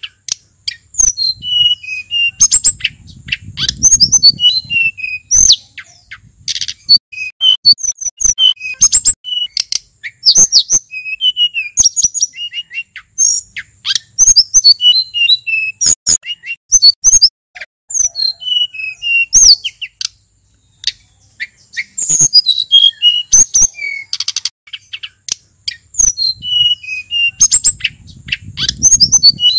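A male sulingan gunung singing a varied song of quick, high whistled notes and falling slurs, one phrase after another with only brief pauses.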